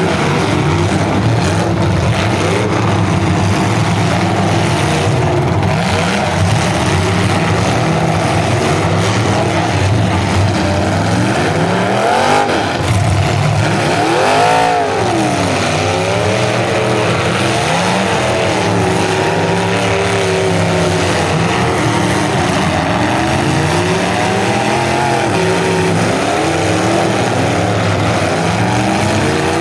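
Several full-size demolition derby cars' engines revving at once, their pitches rising and falling over one another. One engine climbs and drops sharply about halfway through.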